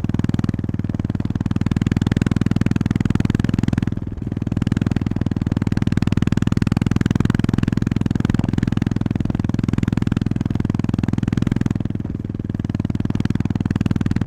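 Honda GB350S's air-cooled single-cylinder engine pulling steadily under way, a dense low throb, easing off briefly about four seconds in and again near the end before picking up again.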